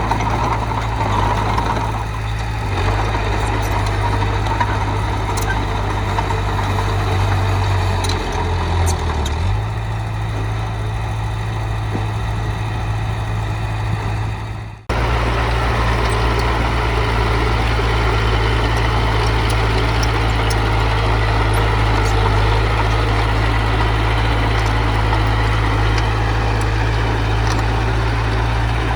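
Heavy diesel engine of earth-moving machinery running steadily at a low, even speed. About halfway through, the sound cuts out for a moment and picks up again.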